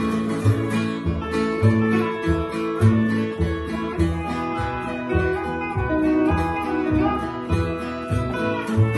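Instrumental break of a country song: guitar and steel guitar playing over a steady bass line.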